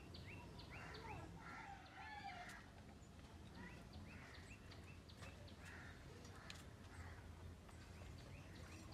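Faint, scattered bird chirps: many short rising and falling calls, busiest in the first two seconds or so and sparser after, over a steady low background rumble.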